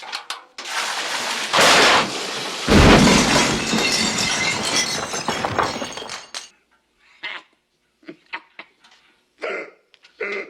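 A loud crash with breaking and shattering, a heavy boom about three seconds in, and a rushing noise that dies away by about six seconds; a few short knocks follow.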